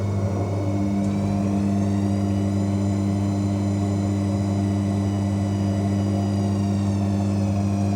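AEG washing machine in its final spin: a loud, steady low hum, typical of the drain pump pumping out water, over the high whine of the drum motor. The whine rises slightly and eases down again towards the end.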